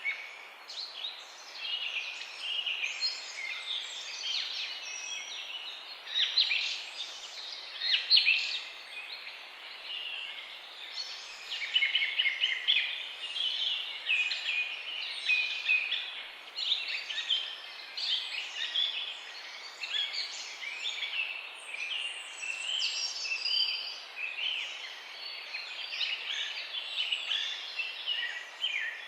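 Many songbirds singing at once: a dense chorus of overlapping chirps, trills and whistles, running on without pauses.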